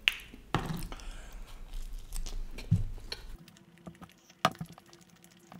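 Close-miked chewing of a mouthful of pizza, with many sharp wet mouth clicks and a few soft thuds. One louder click comes a little past halfway.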